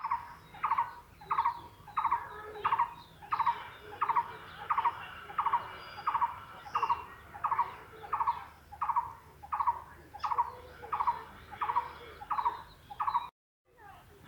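A bird calling over and over: a short, pulsed note repeated steadily about three times every two seconds, cut off abruptly near the end.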